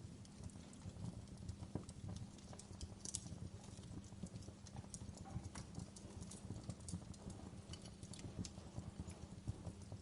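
Wood fire crackling in a fireplace: frequent irregular snaps and pops over a steady low rumble of the flames.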